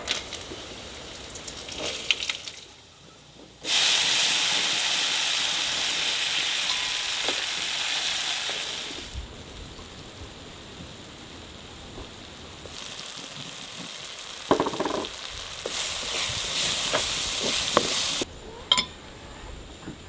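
Food frying in hot oil in a pan: sizzling starts suddenly a few seconds in and dies down, then a second spell of sizzling with a few clinks and scrapes of a utensil.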